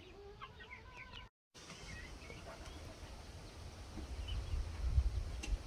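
Young chickens peeping: a run of short high chirps that glide in pitch. After a brief dropout about a second and a half in, fainter peeps go on while a low rumble builds toward the end.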